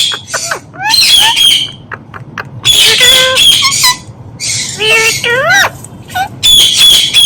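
Indian ringneck parrot calling in harsh, loud screeches, about four bursts of under a second each, with a few quick rising whistled notes about five seconds in.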